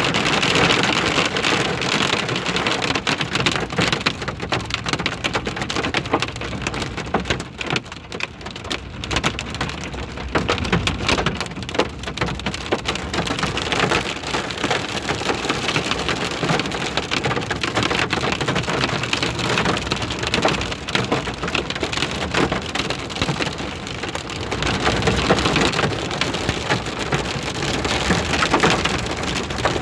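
Hail and rain hitting a vehicle: a dense, continuous patter of impacts. It eases a little about a third of the way in and grows heavier again near the end.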